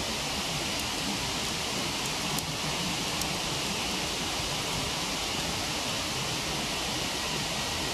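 Steady rushing of a waterfall, with a few sharp crackles from a wood campfire.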